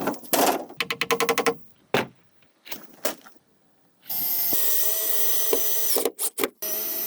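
Power drill running in two steady bursts with a steady whine, with a few short trigger blips between them, after some knocks and a quick run of ticks at the start.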